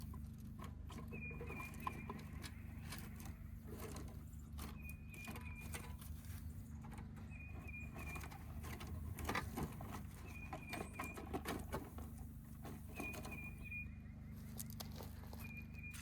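Scattered light clicks and rustles, like footsteps on the ground. A short, high three- or four-note chirp repeats every couple of seconds over a steady low hum.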